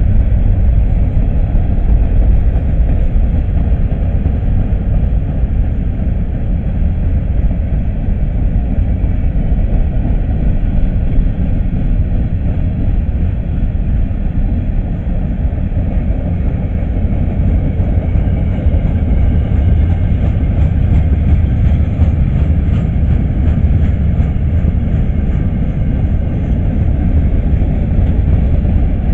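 Freight train cars rolling past close by: a steady, loud rumble of steel wheels on the rails, heaviest in the low end.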